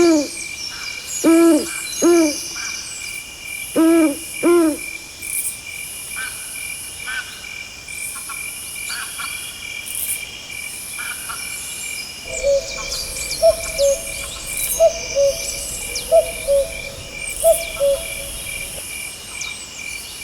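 A Eurasian eagle owl hooting in pairs of deep calls through the first few seconds over a steady chorus of chirping crickets. Later a common cuckoo calls its two-note "cu-coo" about once every second and a half for several seconds while the crickets go on.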